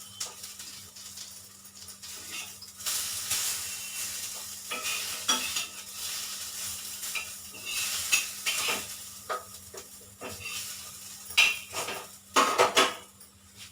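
Hot oil sizzling in a pan while a metal spoon stirs, scrapes and clinks against it, with a few louder knocks near the end.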